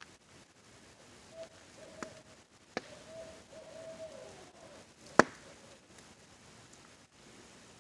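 An owl hooting a run of several notes for about three seconds, over a faint steady hiss of rain. Campfire crackles pop sharply three times, the loudest about five seconds in.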